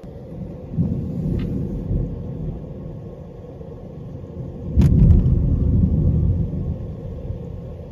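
Close thunder: rumbling starts under a second in, then a sharp crack about five seconds in sets off a louder, heavier rumble that slowly dies away.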